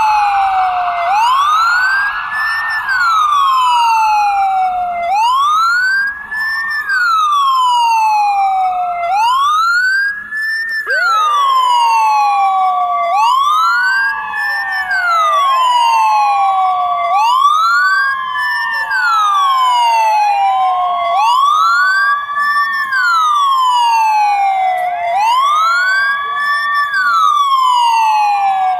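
Ambulance siren wailing: the pitch rises quickly and falls slowly, once about every four seconds. About eleven seconds in, a second, steadier siren tone joins the wail.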